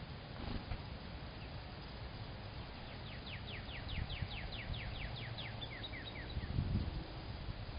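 A songbird singing a quick series of about fifteen downslurred notes, roughly five a second, ending in a few short chips, over a steady low background rumble.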